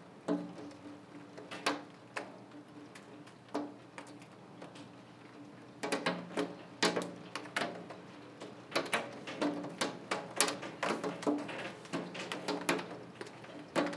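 Heavy raindrops tapping irregularly on window glass during a storm, over a faint steady hiss of rain. The taps come singly at first and fall thicker and louder from about six seconds in.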